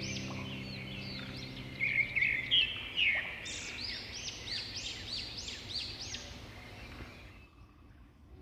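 Small songbirds chirping, a string of quick rising-and-falling whistled notes repeated several times a second, over the fading tail of a held music chord. The birdsong thins out and fades near the end.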